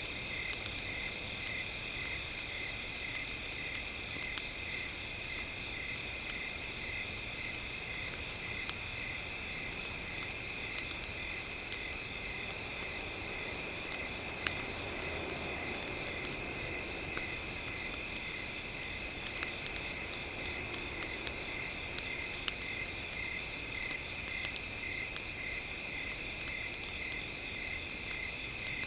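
Chorus of crickets and other night insects: several steady high trills, with one cricket chirping in pulses about twice a second that fades out midway and returns near the end. Faint crackles sound throughout.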